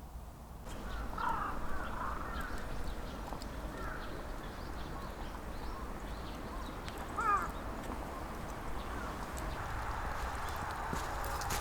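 Birds calling a few times outdoors: a cluster of short calls about a second in, and one sharper, louder call about seven seconds in, over a low steady background.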